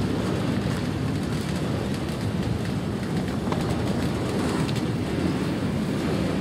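Freight train of covered hopper and tank cars rolling past at close range: a steady rumble of steel wheels on the rails.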